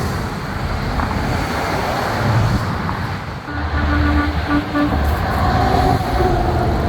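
Semi trucks driving past with a deep engine rumble and road noise. About halfway through, an air horn gives a few short toots, and a higher horn tone comes in about five seconds in.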